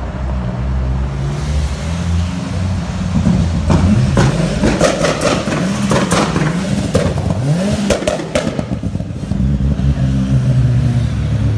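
Mitsubishi Lancer Evolution's turbocharged inline-four revved repeatedly, its pitch rising and falling with each blip over a steady idle. Sharp cracks come from the exhaust among the revs in the middle of the clip.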